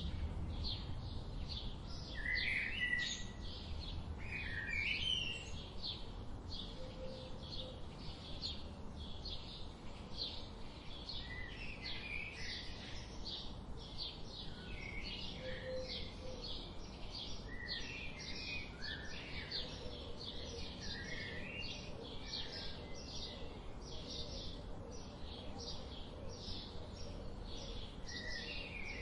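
Wild songbirds singing and chirping together, a dense run of quick high notes and short trills with no pause, over a steady low background rumble.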